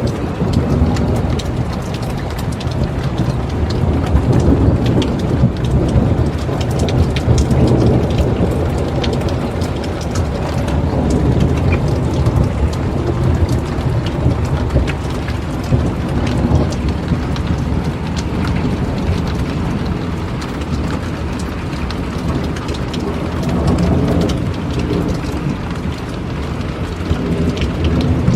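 Steady rain pouring, with thunder rumbling throughout and swelling a few times, from a thunderstorm with very frequent lightning.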